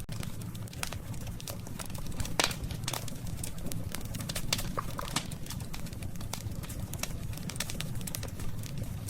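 Wood campfire crackling, with sharp irregular pops over a steady low rumble; one of the louder pops comes about two and a half seconds in.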